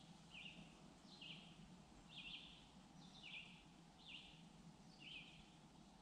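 Faint bird chirping: short, falling chirps about once a second, over a quiet, steady low hum.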